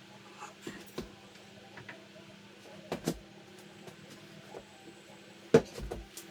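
Scattered knocks and clicks of wood and tools being handled. A pair of knocks comes about three seconds in, and a sharp, louder knock about five and a half seconds in, all over a faint steady hum.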